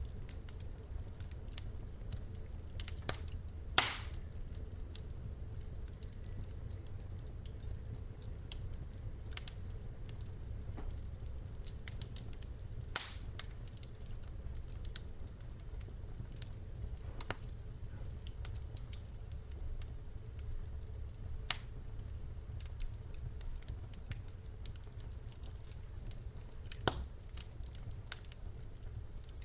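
Wood fire burning in a fireplace: a steady low rumble of flames with scattered sharp crackles and pops from the logs, the loudest pops a few seconds in, about halfway, and near the end.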